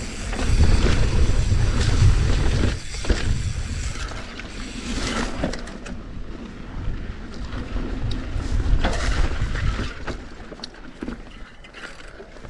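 Wind buffeting the microphone while a mountain bike is ridden over a dirt trail, with tyre rumble and scattered knocks and rattles from the bike. The rumble is loudest in the first few seconds, then eases.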